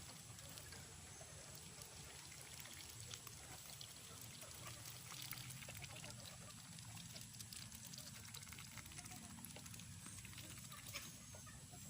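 Chickens feeding: faint scattered pecking clicks and soft clucks over a low steady hum.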